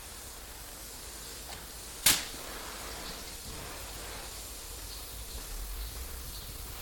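A single sharp knock about two seconds in, over a steady background hiss.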